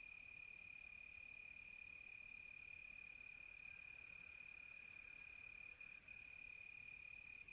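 Crickets chirping in a faint night chorus: one steady high trill, with a higher chirping that keeps cutting in and out in stretches of about a second. A soft high hiss rises slightly partway through.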